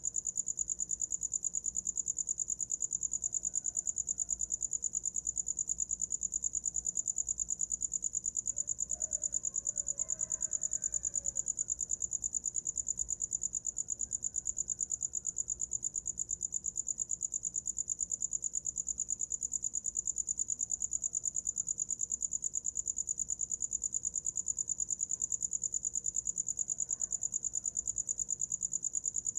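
Cricket chirping: one high-pitched, continuous trill of fast, even pulses.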